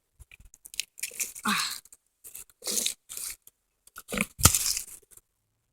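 Crunching and scraping of dirt and debris in several short bursts as a rock is worked loose by hand, with a dull thump about four and a half seconds in.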